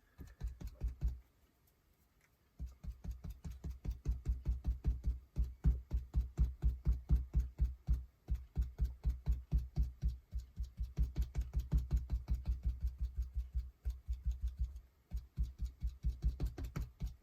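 Paint being dabbed onto a paper art journal page with a sponge: rapid soft taps, several a second, in runs broken by short pauses.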